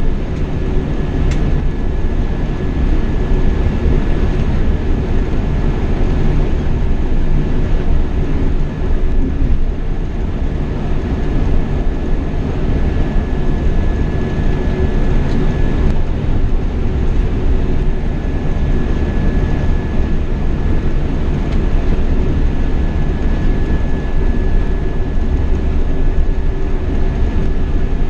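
Scania K420 double-decker coach running steadily at cruising speed, heard from the driver's cab: a constant low engine and road rumble with a faint steady high whine over it.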